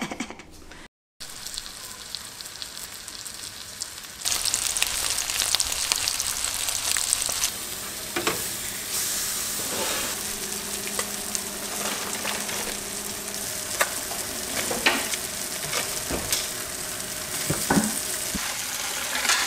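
Blackened trout frying in a hot skillet, with a steady sizzle that gets louder about four seconds in. Occasional short clicks of a utensil sound over it.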